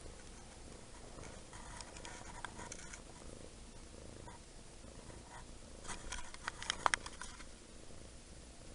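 A five-month-old kitten purring steadily, with short bursts of rustling and clicks about two seconds in and again around six to seven seconds.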